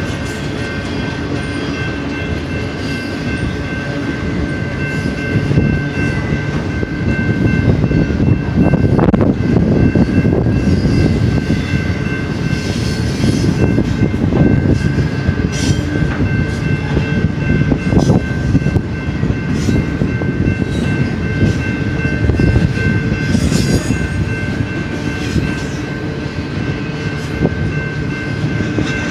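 BNSF intermodal freight train rolling past: a steady rumble of steel wheels on rails that grows louder about six seconds in, with a thin, steady high ringing held over it.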